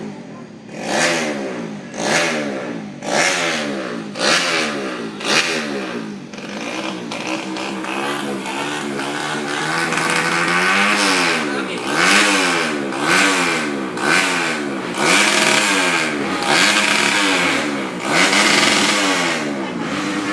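Motocross bike engine being revved: a few sharp throttle blips about once a second, then held running with the revs swept up and down about once a second, getting louder about halfway through.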